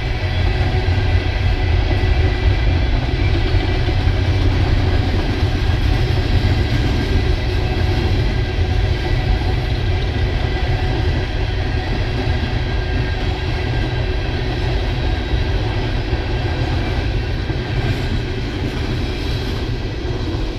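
Empty CSX coal hopper cars rolling past: a steady rumble of steel wheels on rail, easing off near the end as the last cars go by.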